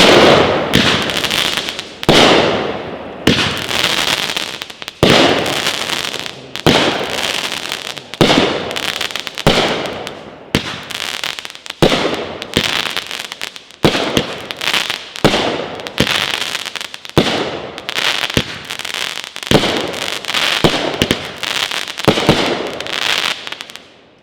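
Elite Fireworks Risin' Stallion 16-shot 200-gram cake firing its shots in steady succession, about one a second or so. Each shot is a sharp report followed by a crackling tail as the crackle-tailed shells rise and break. It dies away at the end.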